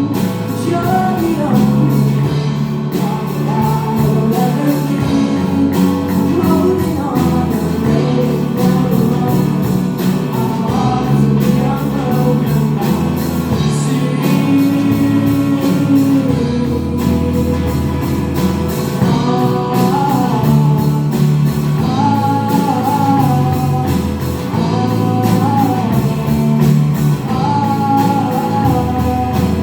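A live rock band playing a song: a male lead vocal sung over electric guitars, bass and drums with a steady beat.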